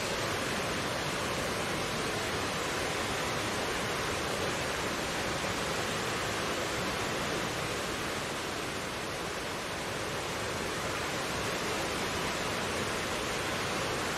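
Mountain stream rushing steadily over rocks, a dense, even sound of flowing water.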